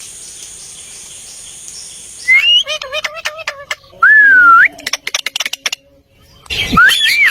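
A pet parrot whistling and calling. About two seconds in comes a burst of squawky calls, then a loud whistle that dips and rises, a run of quick clicks, and another loud rising whistle near the end. The first two seconds hold only a steady hiss.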